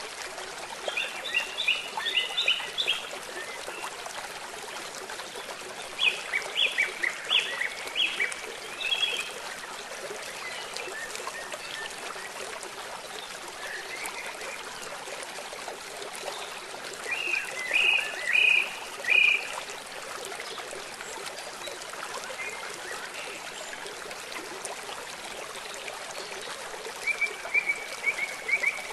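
Birds chirping in four bursts of quick, high notes over a steady hiss of rain and flowing river water.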